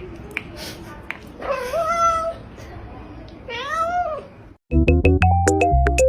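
A cat meowing twice, two drawn-out meows, the second rising and falling in pitch. About three-quarters of the way through it cuts abruptly to loud music with a strong bass and a steady beat.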